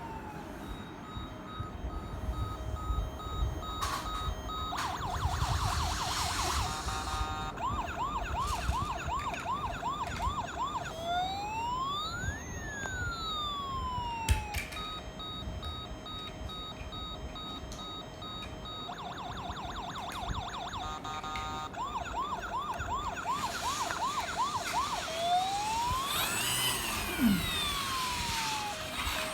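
Electronic police siren cycling through its patterns: runs of fast yelping sweeps, long slow wails that rise and fall, and stretches of steady beeping. A low rumble runs underneath.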